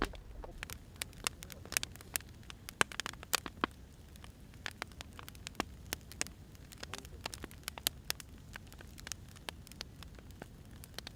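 Wood fire crackling: irregular sharp pops and snaps from burning firewood over a low steady hiss.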